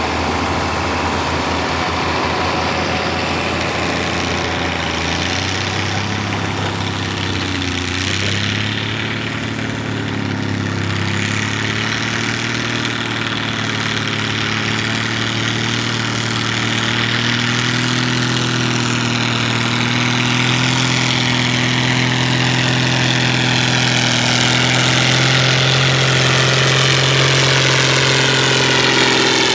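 Pulling tractor's engine running steadily throughout, its pitch and loudness climbing slowly over the span.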